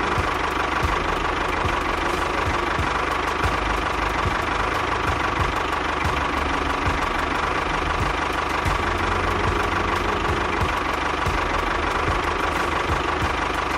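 Motor of a miniature model construction vehicle running steadily with a rattling, engine-like drone.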